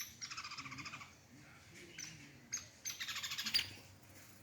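A bird calling with a rapid, high rattling chatter, given twice about three seconds apart, with a few short chips in between.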